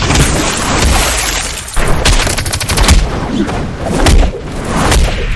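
Dense layered fight sound effects: a rapid string of sharp cracks and impacts over a continuous deep rumble, with a short lull just before two seconds in.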